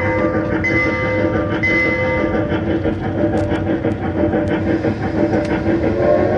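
Solar-powered zoo tour train running, a steady ride noise with a chime repeating about once a second over the first two seconds and a few clicks later on.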